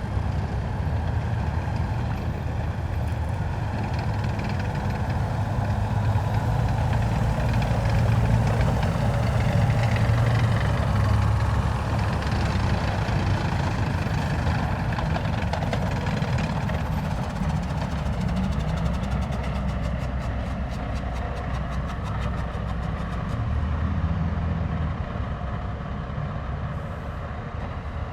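Heavy military vehicles driving past in a column, their diesel engines rumbling steadily. The sound swells as the vehicles pass, loudest a third of the way in.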